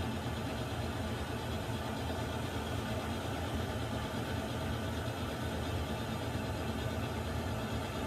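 Water heater running steadily: a constant low rumble and burner hiss with no change in level.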